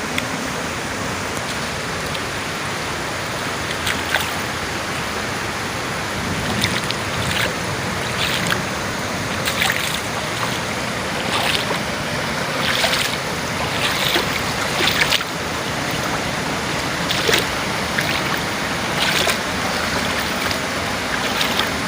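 Steady rushing water with frequent short, sharp splashes or spatters over it, most of them from about four seconds in.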